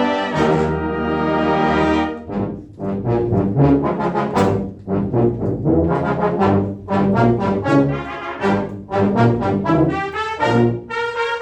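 Brass ensemble of trumpets, horns, trombones and low brass playing a concert piece live: a held chord for about two seconds, then a run of short, punchy repeated notes.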